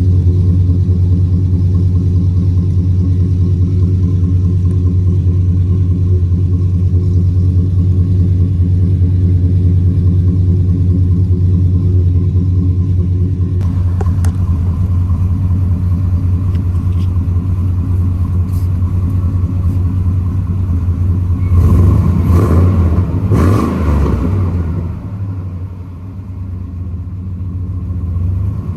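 Chevy Silverado 2500HD's 6.0-litre V8 idling steadily through a Gibson cat-back dual exhaust with a deep rumble, then blipped up briefly about 22 seconds in before settling back.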